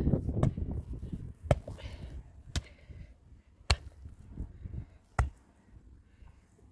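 Five sharp knocks, a tool striking something solid, about a second apart with a longer gap before the last.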